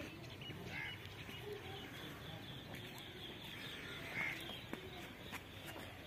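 Faint, short bird calls: one about a second in and a clearer one about four seconds in, with a few faint ticks between them.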